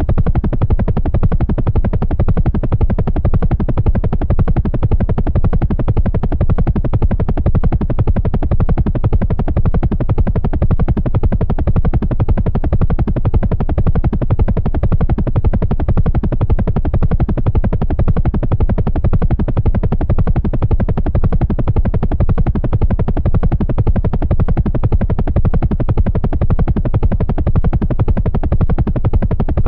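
Helicopter running steadily, its rotor beating in a fast, even pulse.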